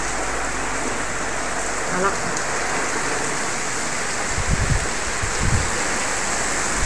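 Heavy rain falling steadily, with a few brief low rumbles between about four and five and a half seconds in.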